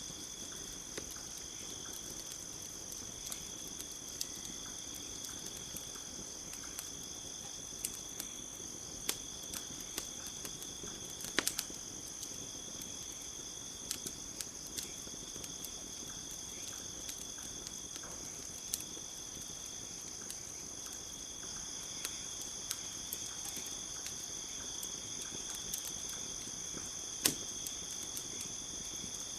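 Steady chorus of crickets chirring at a high pitch, with a wood campfire crackling: scattered sharp pops, a louder one about eleven seconds in and another near the end.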